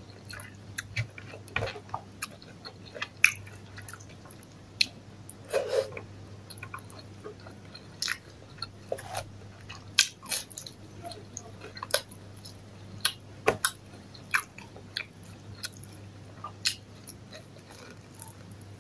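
Close-miked eating: a person chewing and biting food, with irregular sharp clicks and smacks from the mouth.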